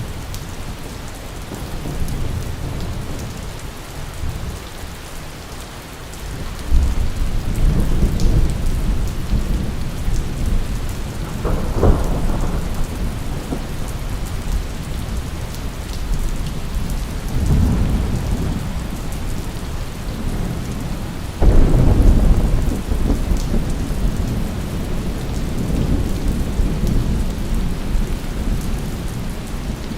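Steady rain with rolling thunder. Rumbles build about 7 s in and near 12 s, and the loudest clap breaks suddenly a little past the middle, then rolls on under the rain.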